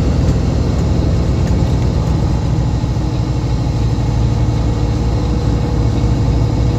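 Semi truck's diesel engine running steadily under way, heard inside the cab as a continuous low drone mixed with road noise.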